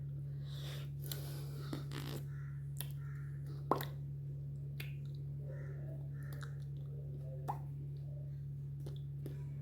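Steady low electrical hum with scattered soft taps and clicks, sharper ones about four and seven and a half seconds in, and faint rustling near the start.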